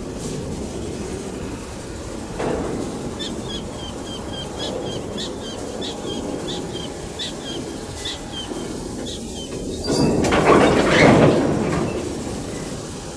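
CC 201 diesel locomotive and a string of empty coal hopper wagons rolling slowly with a steady low rumble of engine and wheels. It swells into a louder clatter about ten seconds in. Through the middle a bird chirps over it in a quick, even series of short high notes.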